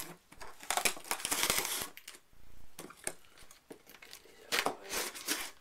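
A cardboard shipping box being opened by hand: bursts of crinkling and rustling from the box and its packing, with scattered light clicks and knocks. The busiest rustling comes about a second in and again near the end.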